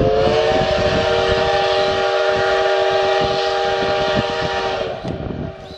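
Steam locomotive's whistle sounding one long blast: a chord of several steady tones over a hiss of steam, rising slightly in pitch near the start and cutting off about five seconds in.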